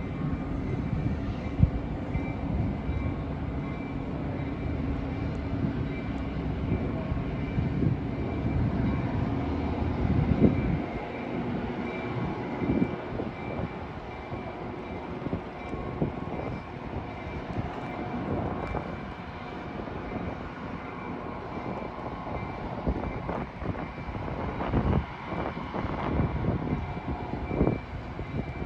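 Metra commuter train with a diesel locomotive: a steady low engine rumble for about the first ten seconds, then quieter, with scattered clanks and knocks from the train.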